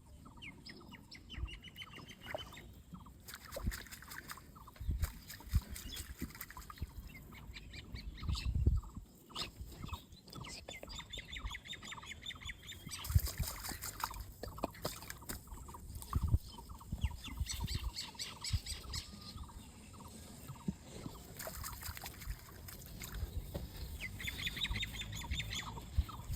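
Birds calling in repeated runs of quick high chirps, with scattered low thuds between them.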